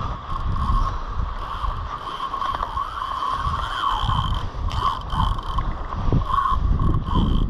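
Fishing reel's drag giving a steady high whine as a hooked shark takes line, over gusty wind buffeting the microphone.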